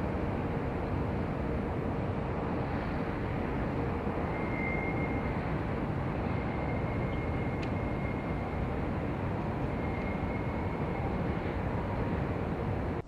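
The Zeppelin NT airship's piston engines and propellers run at a steady drone. A faint high whine comes and goes over it.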